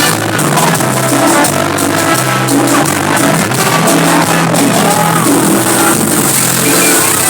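Live cumbia band music playing steadily at full volume, with voices from the crowd mixed in.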